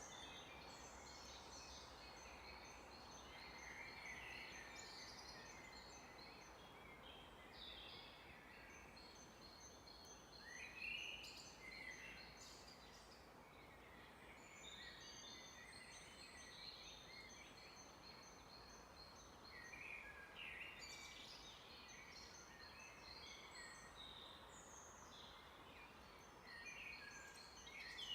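Several birds singing and calling in a forest, faint: short chirps and trills of rapidly repeated high notes, some calls louder than others, over a soft steady hiss.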